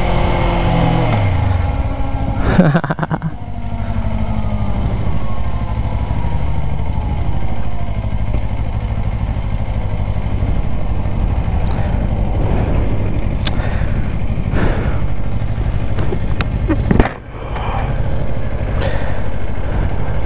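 Kawasaki Ninja 500 parallel-twin engine running while riding, its revs falling over the first couple of seconds and again more slowly a few seconds later, then holding steady. Several short sharp noises cut across it, the loudest about seventeen seconds in.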